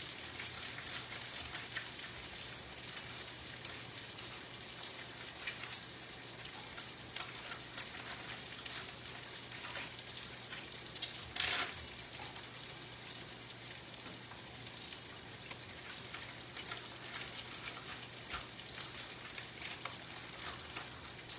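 Meat sizzling and crackling in hot oil in a frying pan as it browns, with a brief louder clatter about halfway through.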